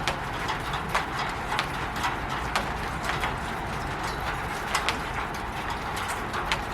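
Rain falling on a roof: a steady patter with irregular louder drips and taps several times a second.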